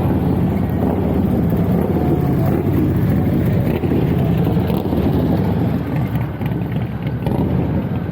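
Steady low rumble of vehicle engine and road noise, with some wind on the microphone.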